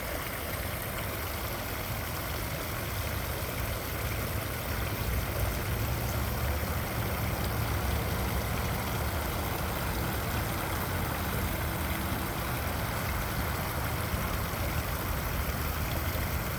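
Small waterfall rushing steadily, a constant deep rumble of falling water.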